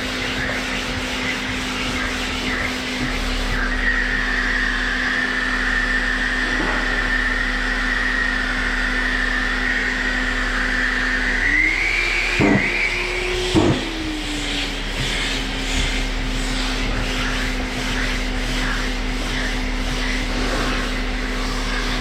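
Power sander with a dust-extraction vacuum running steadily, sanding body filler. About halfway through, the motor pitch rises for a couple of seconds and then settles back, with two sharp knocks in between.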